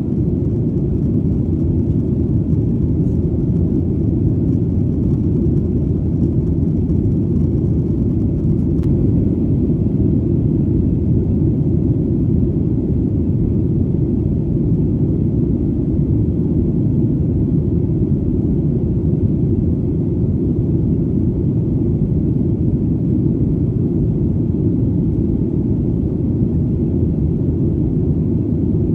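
Airplane engines droning in flight: a steady, deep, even rumble with no change in pitch or level.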